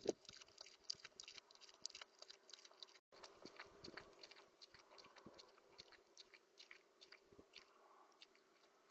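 A small rodent cracking and chewing seeds: a quick run of faint, crisp crunches and clicks that thins out toward the end.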